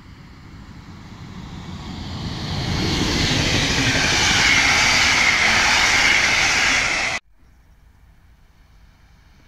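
Passenger train of coaches running past at close range, the rumble and rush of steel wheels on the rails building over about three seconds and holding loud. It cuts off suddenly about seven seconds in, leaving only faint background noise.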